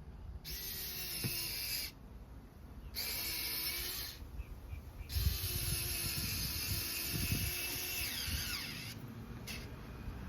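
Electric drill driving a screw in three runs, the last one the longest, its pitch dropping near the end as the screw seats.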